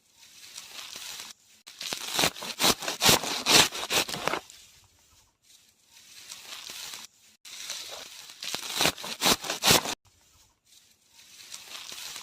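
Fresh green grass rustling and crackling as it is handled in bunches, in irregular spells that break off abruptly several times. The engine is not running.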